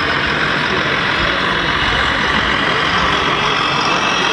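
Steady diesel truck engine sound from an RC scale truck's sound module, played through a small speaker, with little bass.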